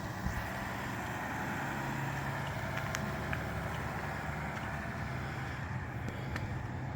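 Steady motor-vehicle running noise, a low engine hum with road and wind noise.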